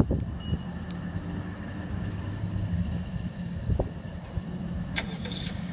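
2018 Honda Accord engine starting under its remote start system and then idling steadily. A brief rush of noise comes near the end.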